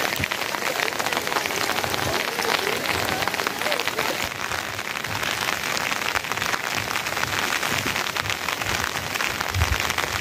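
Steady rain falling, with a dense stream of individual drops ticking on nearby surfaces.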